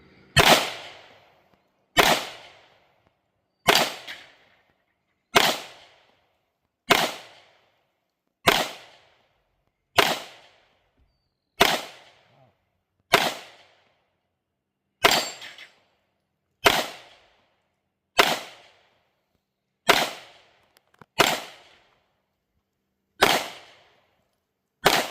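Sixteen single shots from a Canik 9mm semi-automatic pistol, fired slowly and evenly, about one every second and a half, each crack followed by a short echo.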